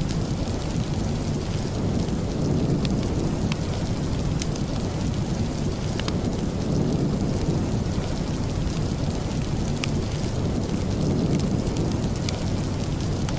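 Steady rain with a deep, constant rumble, dotted with scattered sharp ticks.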